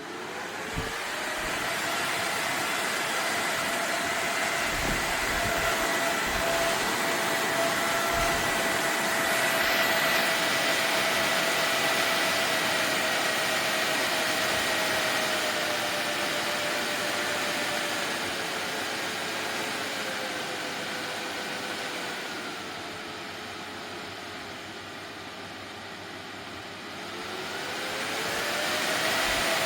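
Small electric fan for fan-cooled work clothing running: a steady motor whine over a rush of air, spinning up in the first couple of seconds. Past the middle its pitch and loudness sink as it slows, then climb again near the end as it speeds back up.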